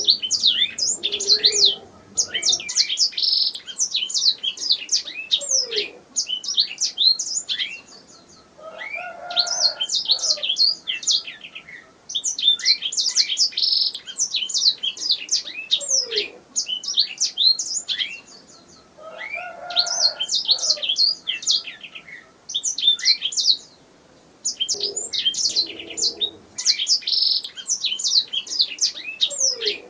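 Domestic canary singing: long phrases of rapid chirps and trills, broken by short pauses about every four to six seconds.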